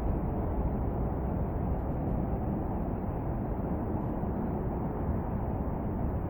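Steady wind rumbling and buffeting against the microphone.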